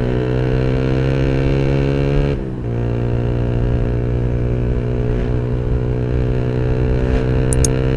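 Yamaha R15's single-cylinder four-stroke engine through a custom racing exhaust, ridden under load. Its pitch climbs slowly, dips sharply about two and a half seconds in at a gear change, then climbs again.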